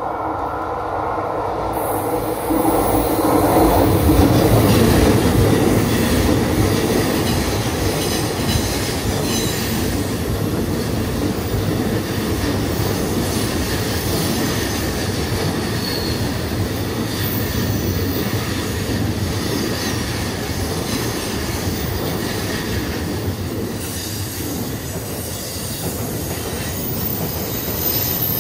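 JR Joban Line E531-series electric commuter train passing close by at track level. It grows louder over the first few seconds, then holds as a steady rumble of steel wheels on rail while the cars go by.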